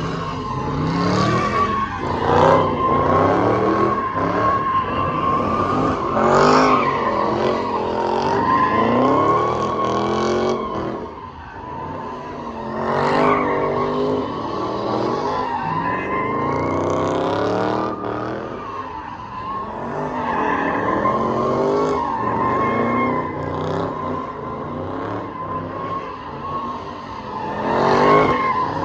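Car engines revving up and down in repeated loud surges over a steady, high tyre squeal that runs on throughout.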